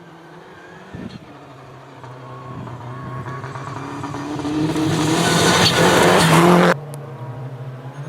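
Rally car approaching flat out on a dirt stage, its engine note and the hiss of tyres and flung gravel growing steadily louder. The sound cuts off abruptly about two-thirds of the way through, leaving a quieter engine running steadily.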